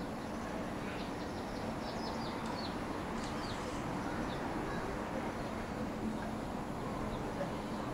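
Steady low hum of a town in the distance, with a bird chirping in a quick run of short, high calls from about one to four and a half seconds in.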